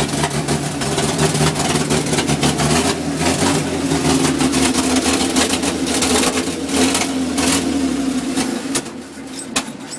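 Cab-over-engine truck's engine running cold, a rapid steady firing, then dying away about nine seconds in after the clutch is disengaged; the owner puts the stall down to the engine still being cold.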